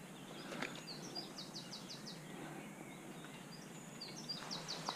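A small songbird singing faintly over a steady background hiss: two short runs of quick, high repeated notes, about a second in and again near the end.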